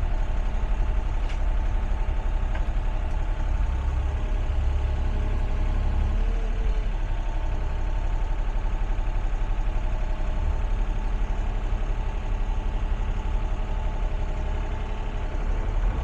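Excavator's diesel engine running steadily while it digs into a steep hillside.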